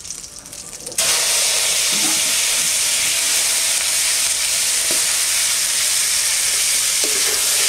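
Boiled, chopped banana flower hitting hot oil in a kadai (wok), setting off a loud, steady sizzle that starts suddenly about a second in and keeps going.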